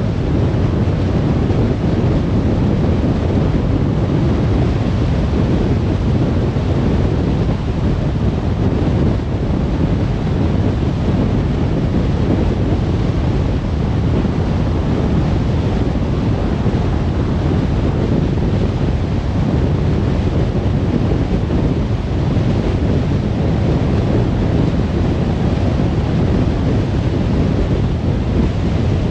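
Steady noise of a car driving at speed: tyre rumble and wind rushing, heaviest in the low end.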